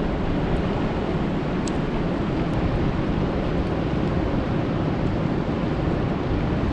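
Steady rain falling on a lake: an even rushing noise, heaviest in the low range, with a few faint clicks of single drops.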